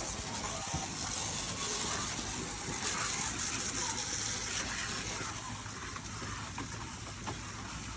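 Water running in a steady rushing spray.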